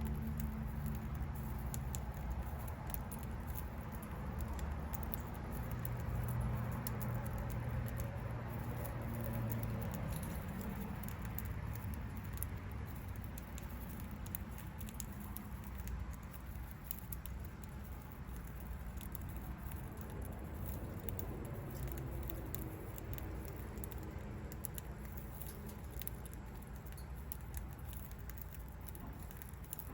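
Budgerigar pecking and husking seeds, a steady patter of small rapid clicks.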